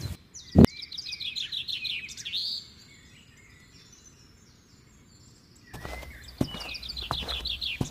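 A songbird singing a quick run of chirps that falls in pitch, twice, with a stretch of near quiet between. A sharp click comes about half a second in, and a few footsteps near the end.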